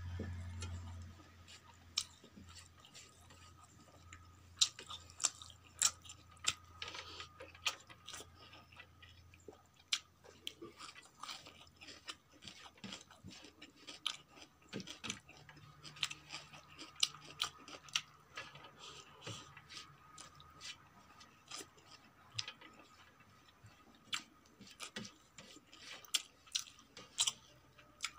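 Close-miked chewing with many sharp, irregular mouth clicks, along with fingers gathering rice on a stainless steel plate.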